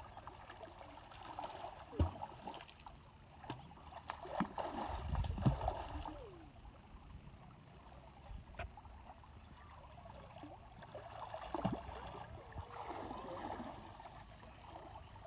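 River water flowing, with splashes and knocks from people moving in the water. The splashes are loudest about two seconds in, between about four and six seconds in, and again near twelve seconds.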